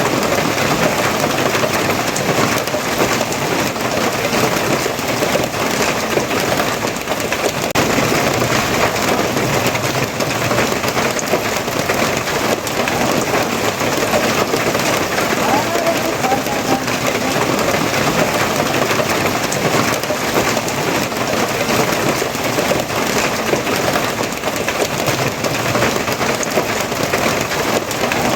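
Steady rain falling, an even, dense patter that holds constant without let-up.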